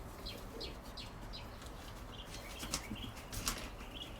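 Birds chirping: a run of short, high chirps repeated every third of a second or so, with a few sharp ticks about three seconds in.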